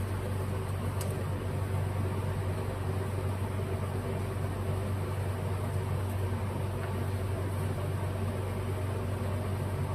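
Steady low machine hum with a noisy whir, and a faint small click about a second in.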